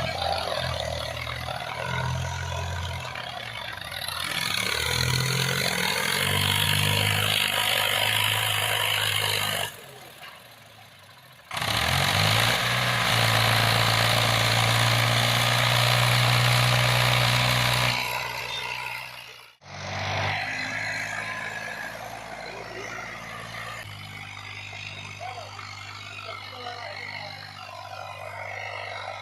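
Diesel tractor engine running steadily with a heavy rushing noise over it. The sound drops away about ten seconds in, comes back loud, cuts off abruptly near twenty seconds, then resumes at a lower level.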